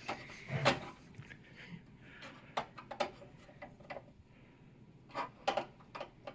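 Irregular clicks, taps and rubbing from hands working parts and screws into a PC case, with a louder knock about half a second in and a cluster of clicks around five to six seconds.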